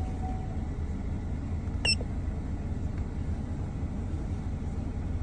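Steady low rumble of a car engine idling, with one short high electronic chirp about two seconds in.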